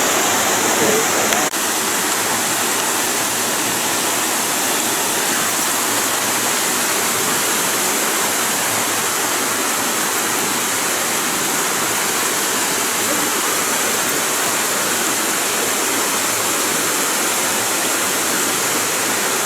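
Waterfall rushing with a steady, even roar of falling water, heavy with flow.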